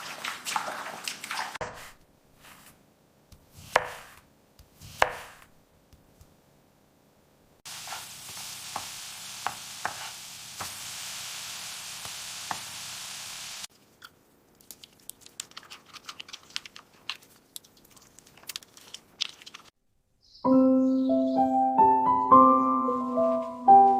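Scattered short clicks and knocks, then a stretch of steady hiss with light ticks in it, then more crackling clicks; a few seconds before the end, keyboard music in clear piano-like notes comes in.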